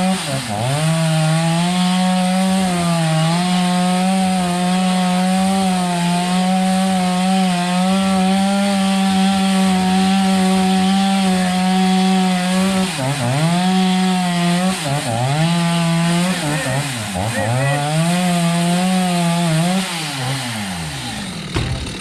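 Chainsaw engine running at high speed, cutting through the wood of a fallen tree. In the second half its speed drops and picks up again three or four times, then it winds down near the end.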